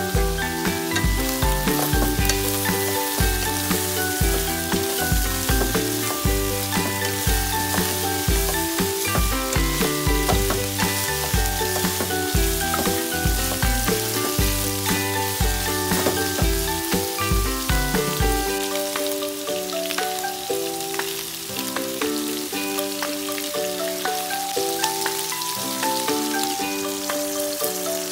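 Beef slices frying and sizzling in a nonstick pan, with background music with a steady beat over it; the music's bass drops out about two-thirds of the way through.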